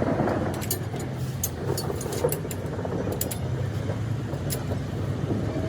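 An engine running steadily, with scattered light clicks over it.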